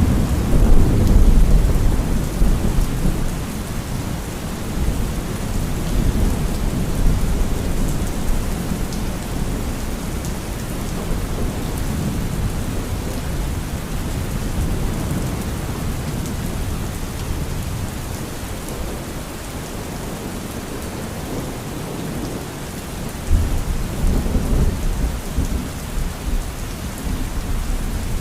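Steady heavy rain with rolling thunder: a long low rumble near the start, then the rain goes on evenly until another rumble of thunder swells near the end.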